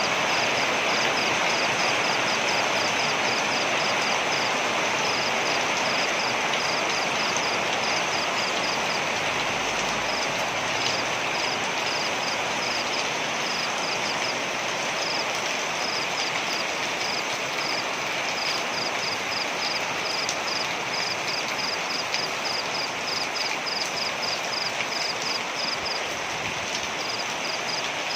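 Waterfall rushing in a steady, even roar of falling water. Over it comes a high, rapid chirping, repeated in quick runs with short gaps.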